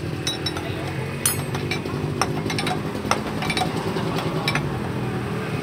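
Yamaha L2 Super two-stroke motorcycle engine running steadily, with a dozen or so sharp metallic clicks and clinks scattered over it.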